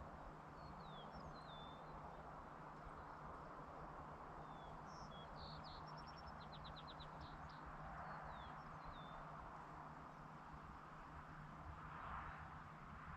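Faint birds calling with scattered short chirps and, about halfway through, a quick trill of rapid notes, over a steady low hum and a soft, even background rush.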